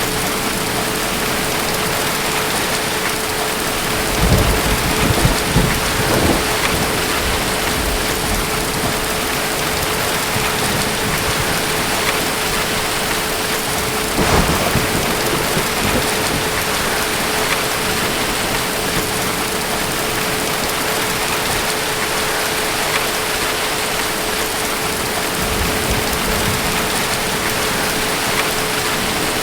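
Steady rain with low rumbles of distant thunder, about four seconds in, again around fourteen seconds in, and near the end.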